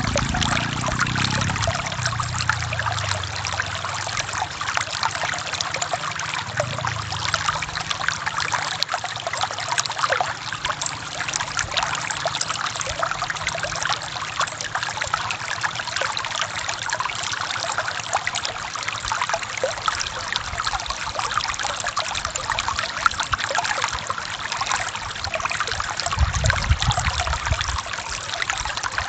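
Forest river water flowing and trickling over rocks with a small waterfall, a steady splashing rush. A low rumble in the water swells near the start and again near the end.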